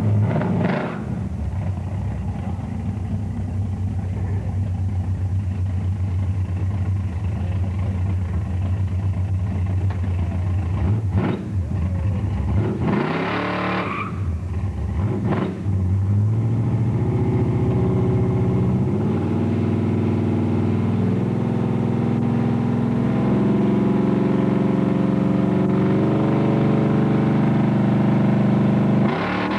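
1976 Pontiac Trans Am's V8 running steadily at a low rumble. From about halfway through it revs up in steps and is held at high rpm while the car stays put.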